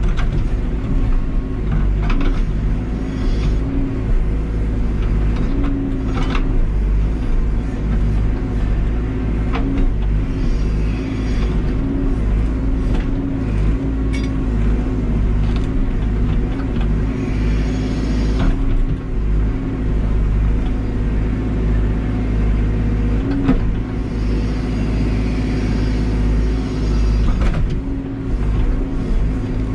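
Caterpillar backhoe loader's diesel engine running steadily under hydraulic work, its pitch rising and dipping again and again as the machine takes load. A few sharp knocks are heard, about every three to four seconds.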